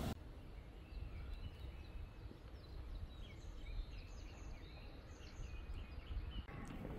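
Outdoor ambience: scattered faint bird chirps over a low, steady rumble.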